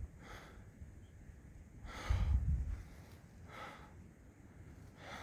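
A hiker breathing hard while walking, about four breaths, with a low gust of wind on the microphone around two seconds in.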